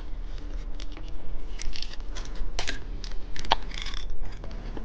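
Plastic-wrapped novelty candy being handled: irregular light clicks and short crinkles of plastic packaging.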